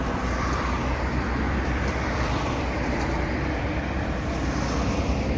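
Steady motor-vehicle and road noise, an even rumble with no distinct events.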